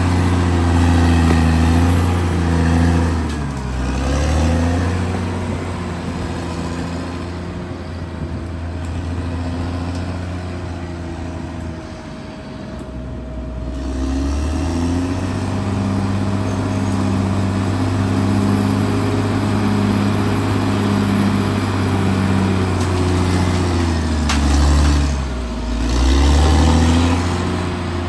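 Caterpillar D6R XL bulldozer's diesel engine running under work, its pitch dipping and recovering about three seconds in and again near the end, with a steady thin whine throughout.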